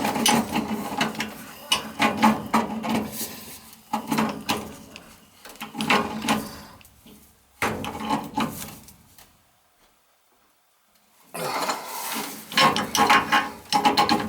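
Hands working on a gas furnace: irregular clatter and rubbing of metal parts and tools in bursts, broken by a pause of a second or two about ten seconds in.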